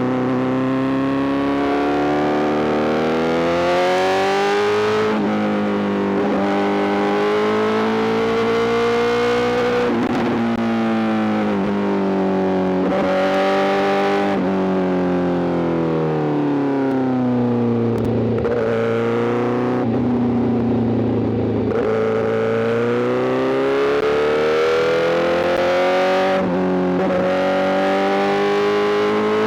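Honda CBR1000RR-R SP's inline-four engine through a full Arrow GP exhaust, accelerating hard. Its pitch climbs in runs broken by brief drops at each upshift, falls away for a few seconds midway as the bike slows, then climbs through the gears again.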